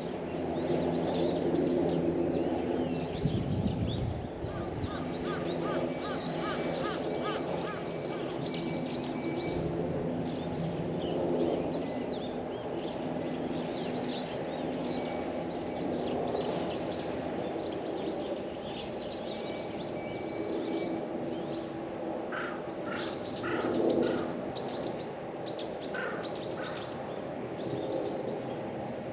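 Several birds calling and chirping at once, with a run of quick repeated notes early on and a louder burst of calls near the end, over a low steady hum.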